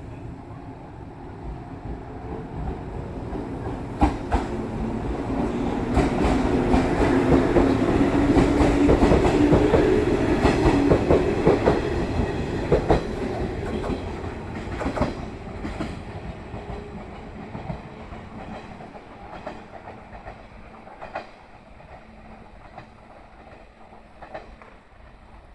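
A train pulling out of the station and passing close by. Its running noise swells to a peak and then fades as it draws away, with the clack of its wheels over rail joints.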